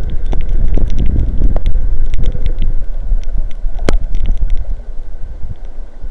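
Strong wind gusting across the nest-cam microphone in a heavy rainstorm, a loud buffeting rumble, with scattered sharp ticks of rain striking the camera; one tick about four seconds in is the loudest.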